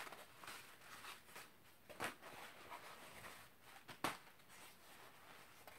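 Faint rustling of fabric pieces being handled, with two soft sharp clicks about two seconds apart.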